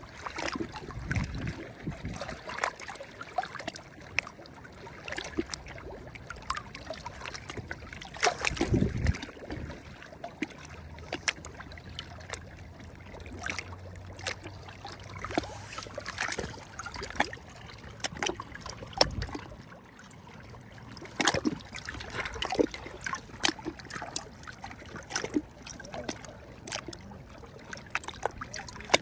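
Small sea waves lapping and splashing, with irregular trickling and sharper splashes every second or so. A faint low hum comes in for several seconds in the middle.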